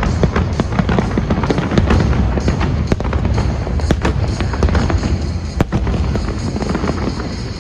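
Fireworks display: a dense, continuous run of sharp cracks and bangs from bursting shells over a steady low rumble.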